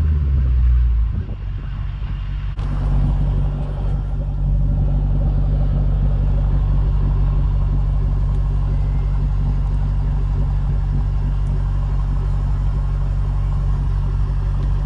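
Shelby GT500's supercharged V8 through a Borla ATAK exhaust: its revs fall away during the first second, then it runs steadily at low revs. There is a sudden step up in loudness about two and a half seconds in.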